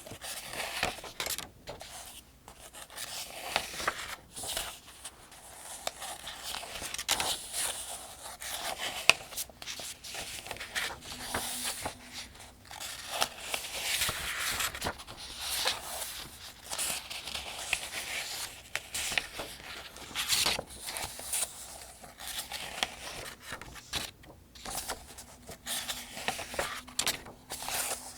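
Paper pages of a Farmers' Almanac being turned one after another, each turn a soft rustling swish, repeating every second or so at a steady pace.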